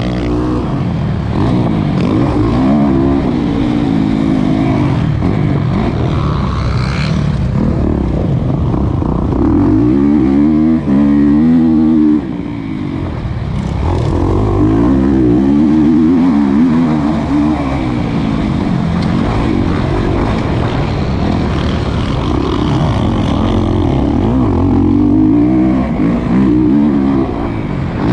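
Kawasaki KX450 single-cylinder four-stroke motocross engine, heard from the rider's helmet, revving up and down repeatedly as the throttle is opened and shut around the track.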